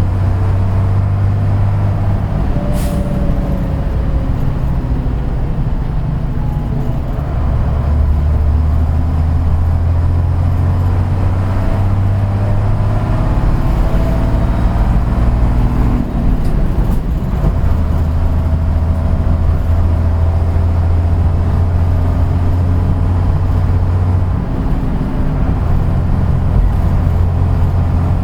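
Kojaku Kotsu bus no. 634 under way, its engine humming steadily, with the engine note stepping up and down several times as it shifts gears and changes speed. A brief hiss of air comes about three seconds in.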